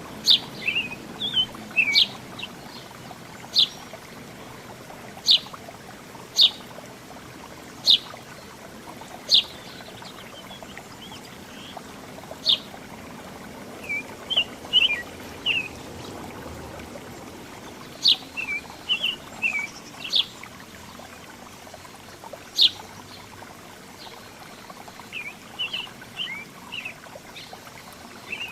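Small songbirds chirping: a sharp, short chirp repeated every second or two, with softer, curling twitters in between, over a steady background hiss.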